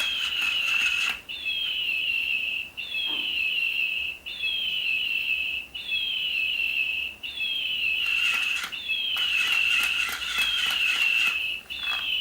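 Electronic toy bird chirping over and over, a call about every second and a half: each starts with a short falling glide and levels into a steady high whistle. Rapid clicking sounds under some of the calls.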